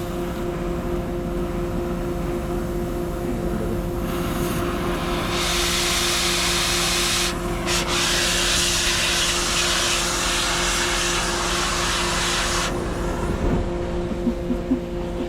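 Cutting torch hissing as it cuts through welds on sheet metal. The hiss starts about four seconds in, breaks off briefly near the middle and stops a little before the end. A steady machine hum runs underneath.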